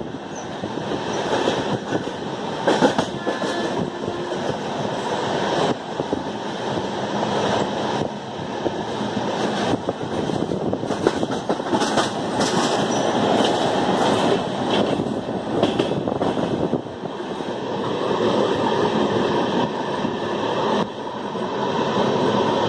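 Running noise of a moving passenger train heard at an open coach door: wheels rumbling on the rails with wind rush, and sharp clicks here and there, thickest about halfway through.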